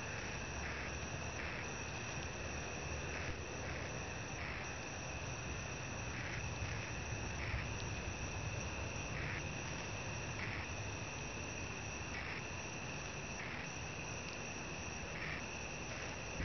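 Crickets chirring: a steady high trill with a regular pulse about once a second, over a low rumble of background noise.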